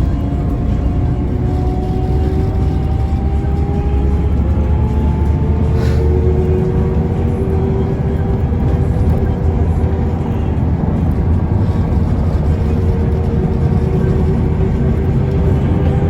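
Mercedes-Benz O405N2 city bus under way, heard from on board: a steady low engine and road rumble with a whine that rises in pitch over the first six seconds as the bus gathers speed, then holds level. A single click about six seconds in.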